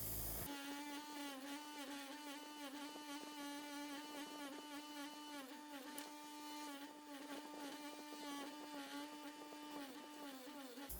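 A small electric motor whines at a steady pitch, sagging briefly and recovering about once a second as it is loaded. It starts half a second in and stops just before the end.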